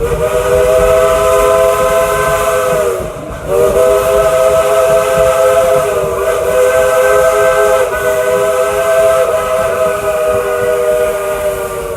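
Steam locomotive's chime whistle blowing two long blasts, several notes sounding together: one of about three seconds, then after a brief break one of about eight seconds. The whistle belongs to the train's 2-8-2 steam locomotive.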